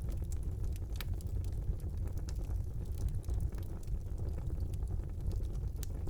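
Wood fire burning in a brick fireplace: a steady low rumble of the flames with frequent sharp crackles and pops, one louder pop about a second in.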